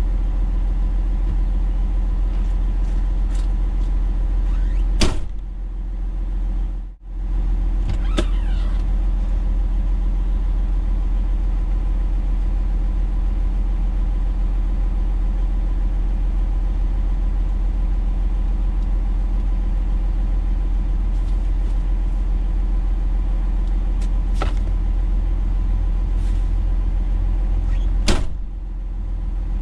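Truck engine running with a steady low drone. Two sharp clicks stand out, about five seconds in and near the end.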